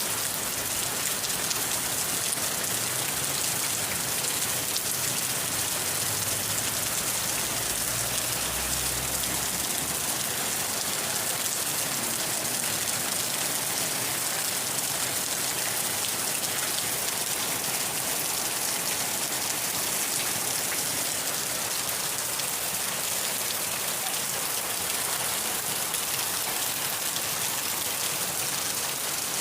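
Steady, heavy rain falling and pattering on surfaces, an even hiss with no pauses, with a faint low rumble under it during the first ten seconds or so.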